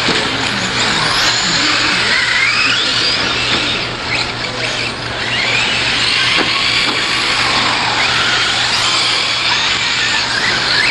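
Several radio-controlled 4WD short course trucks racing together. Their motors whine in overlapping pitches that rise and fall as the trucks accelerate and slow, over a steady hiss of tyres and motors.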